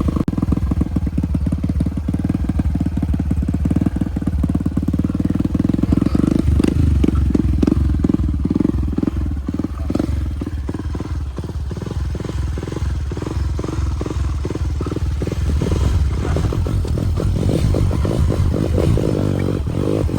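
Motorcycle engine running steadily while under way.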